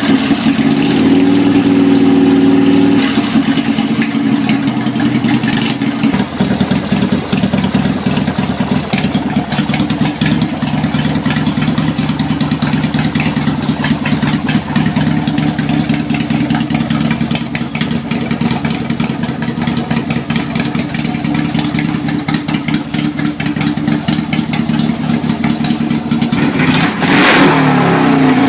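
Harley-Davidson Dyna's 1340 cc Evolution V-twin running loud through homemade 2-inch stainless steel exhaust pipes: held at raised revs for about the first three seconds, dropping back to idle, then revved again near the end.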